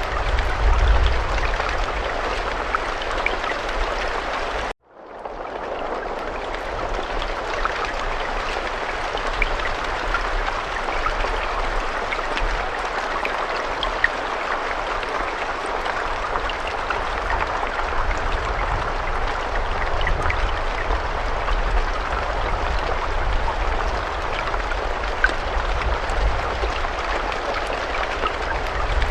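Steady rain: a dense hiss of falling drops with small drop ticks through it and a low rumble underneath. Near five seconds in it cuts out abruptly for a moment, then fades back in over about a second.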